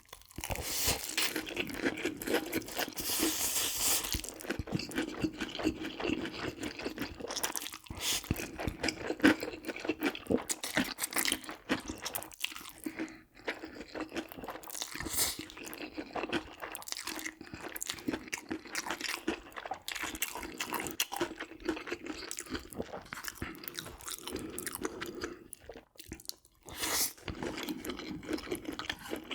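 Crispy fried chicken being bitten and chewed close to the microphone: a dense run of crackly crunches and chewing, with a short pause about 26 seconds in.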